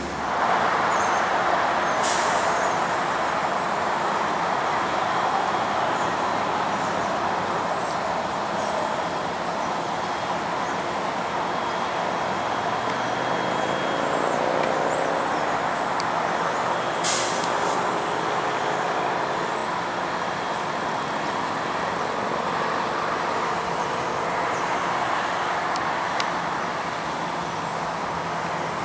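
Passenger train standing at the platform with its engine idling, a steady drone. Two short hisses of released air, typical of train air brakes, come about two seconds in and again about seventeen seconds in.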